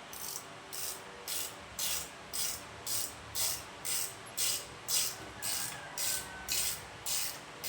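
Rhythmic metal scraping strokes, about two a second, as a stuck bottom engine mounting bolt is worked back and forth out of the motorcycle frame.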